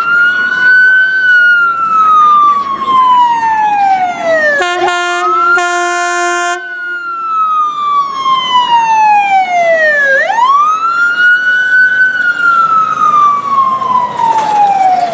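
Fire truck siren wailing: each cycle rises quickly and then falls slowly over about five seconds. A steady, deep horn blast of about two seconds breaks in partway through, and the siren then winds back up.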